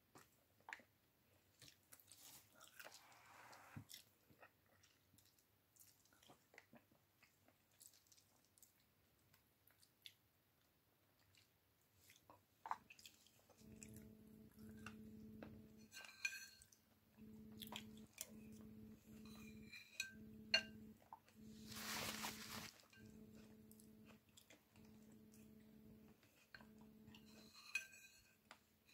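Close-up eating sounds of a person chewing chicken picked from the bone by hand: soft chewing and small clicks and crunches. From about halfway a low hum starts up and keeps cutting in and out, and a brief hissing burst comes a little later.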